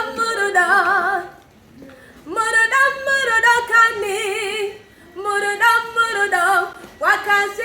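A woman singing long held notes with a wide, even vibrato, in three phrases with short breaks between them.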